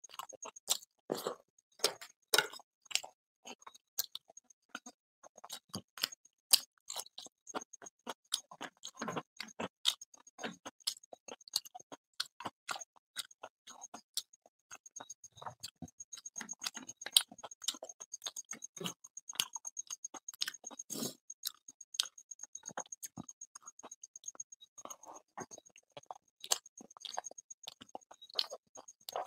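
Close-miked chewing and lip-smacking of a man eating luchi and curry with his fingers: a dense, irregular run of wet mouth clicks and smacks, several a second.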